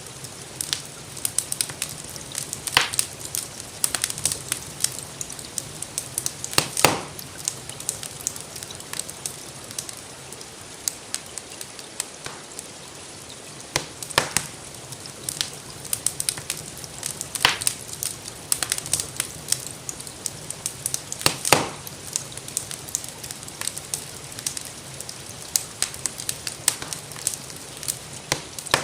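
Wood fire in a fireplace crackling steadily, with frequent small snaps and a few louder pops, over a steady hiss of gentle rain.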